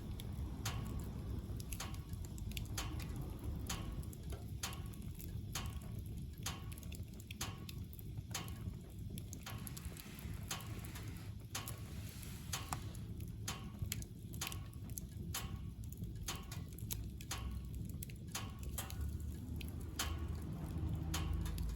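Firewood crackling and popping as it burns in a wood-burning stove: irregular sharp snaps, several a second, over a steady low rumble of the fire.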